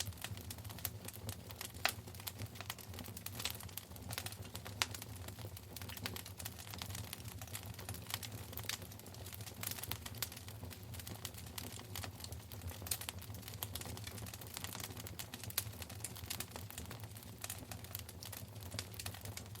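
Wood fire burning in a fireplace: constant irregular crackling and popping over a low steady rumble, with a few louder sharp pops scattered through.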